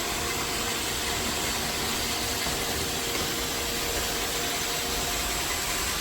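iRobot Roomba 692 robot vacuum running on the floor: a steady whirring rush of suction and brushes with a constant faint hum.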